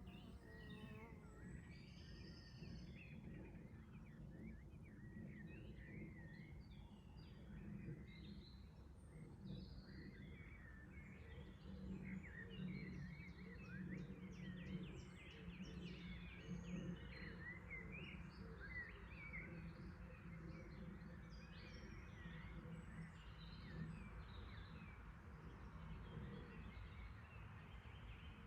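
Small songbirds chirping and singing faintly, with many short calls that are busiest in the middle stretch, over a steady low rumble.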